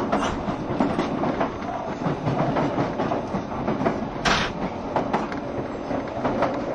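JR Shikoku 7200 series electric train running at speed: a steady rumble of wheels on rail with clickety-clack clicks in pairs as the wheels cross rail joints. About four seconds in there is one brief, sharper burst.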